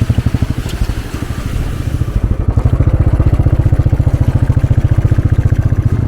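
Motorcycle engine running steadily at low revs, a rapid, even chugging of its firing pulses.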